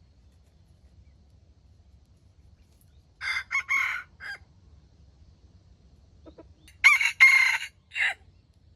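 Jungle fowl rooster crowing twice, each crow about a second long and broken into several short parts.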